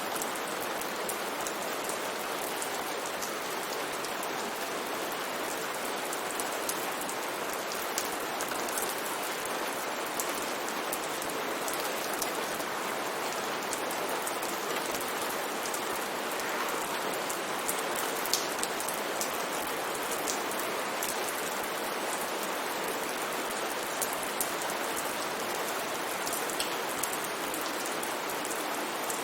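Steady rain falling, with single drops ticking sharply now and then on the hiss.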